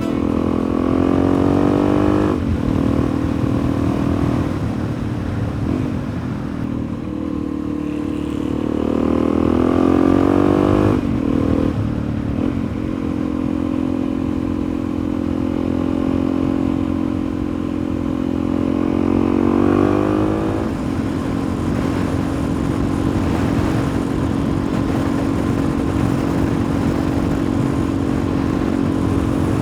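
Suzuki DR-Z400E's single-cylinder four-stroke engine under way. Its pitch climbs and drops sharply three times as it changes gear, and it then holds a steady speed for the last third.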